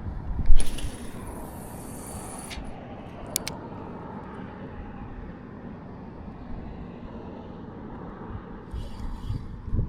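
A cast with a spinning rod: a sharp swish, then line hissing off the spool for about two seconds, then a couple of sharp clicks. Low wind rumble on the microphone underneath.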